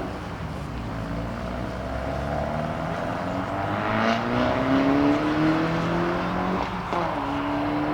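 Car engine accelerating hard away, its pitch climbing steadily through the revs, with a sudden drop for a gear change near the end before it climbs again.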